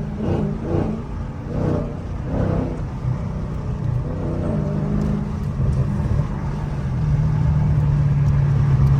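A car engine running with a steady drone. Its pitch steps up briefly about four seconds in and settles back, and it gets louder over the last couple of seconds.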